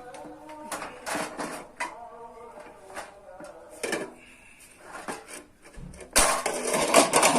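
Metal knocks and clatters from working a sheet-steel bread pan, scattered at first, then a much louder, dense run of metal clattering for the last second or so.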